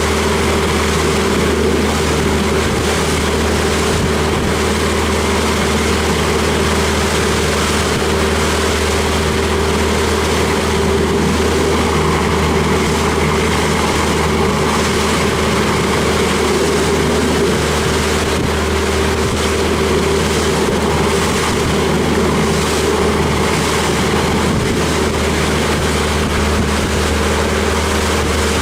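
Jon boat's outboard motor running at a steady, unchanging speed, with a constant rushing hiss of wind and water over it.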